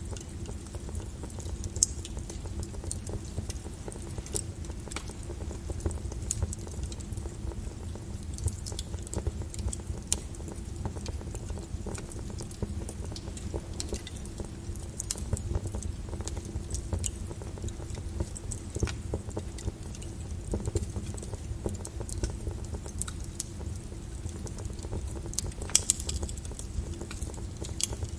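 Wood fire crackling, with sharp pops scattered throughout, a louder one about two seconds in and a cluster near the end, over a steady low hiss and rumble of rain.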